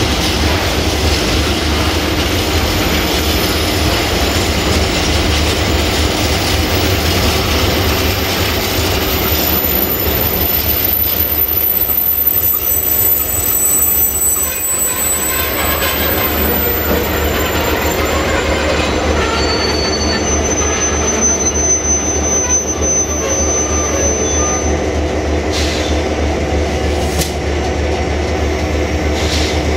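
Open-top freight wagons of a long freight train rolling past close by: a steady rumble of steel wheels on the rails, with thin high wheel squeals in the middle and later part.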